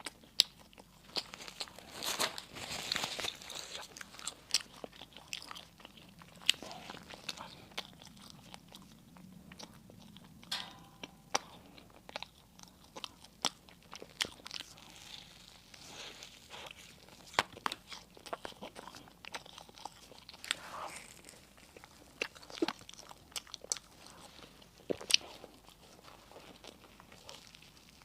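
Close-miked eating sounds: crunchy bites into crisp baked bread and wet chewing, with many sharp crackles scattered throughout and a denser crunching stretch about two seconds in.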